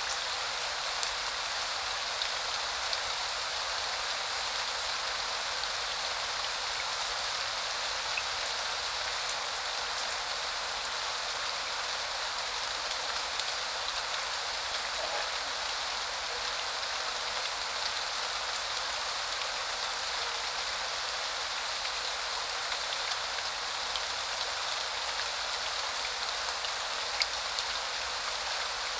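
Steady spring rain falling on surfaces, an even hiss with scattered drips ticking through it.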